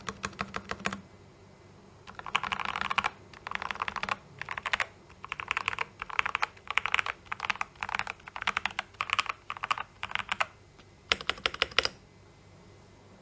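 Typing on a Yinchen D84 84-key mechanical keyboard with Gateron brown switches, rapid keystrokes in bursts with short pauses between them. The typing stops near the end.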